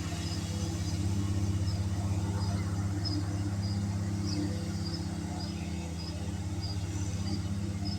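Lawn mower engine running steadily under load, cutting tall, tough grass. Faint high chirps repeat about twice a second above it.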